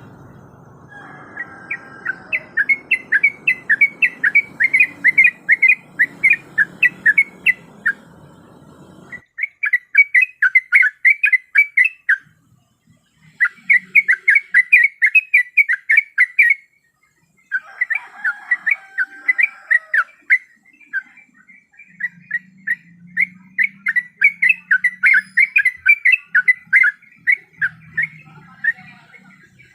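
Yellow-vented bulbul (trucukan) calling in fast chattering runs of short, whistled notes, several a second, in bouts broken by brief gaps. This is a bird-catchers' lure call, the female's call to a male.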